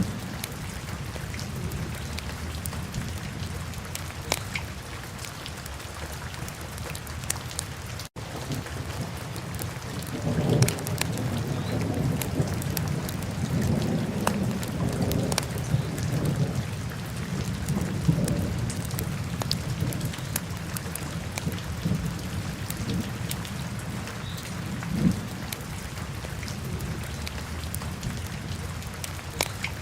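Wood fire burning in a fireplace: steady crackling with frequent sharp pops, under a low rumble that swells about a third of the way in. There is a momentary break in the sound about a quarter of the way in.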